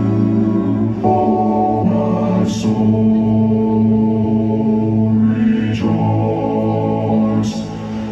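Live band music playing sustained chords that change every second or two, with a choir-like sound to it.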